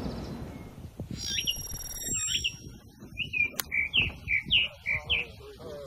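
A bird chirping in a quick run of short calls. A golf iron strikes the ball with one sharp click about three and a half seconds in.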